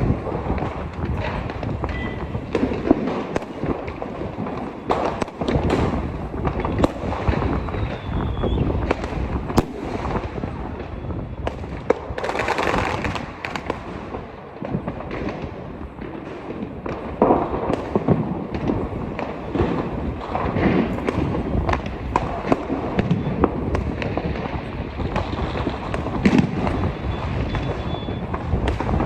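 Fireworks and firecrackers going off without a break: a dense run of sharp cracks and bangs over a constant rumble, with a brief hissing burst about twelve seconds in.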